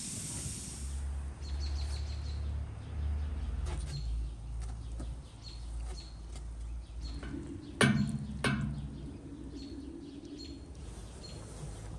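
A wood fire hisses briefly at the start. Then small birds chirp in short high calls about once a second over a low steady rumble, and two sharp knocks a moment apart stand out about two-thirds of the way through.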